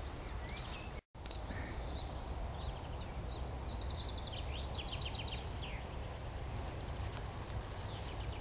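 Songbirds singing in rapid runs of short chirps and trills over a steady low rumble. The sound drops out completely for an instant about a second in.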